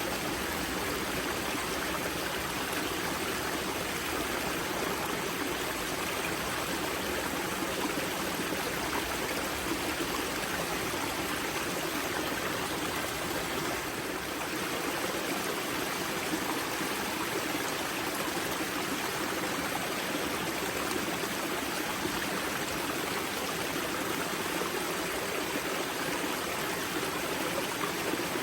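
Spring-fed mountain river water flowing and splashing at its source, a steady rushing babble.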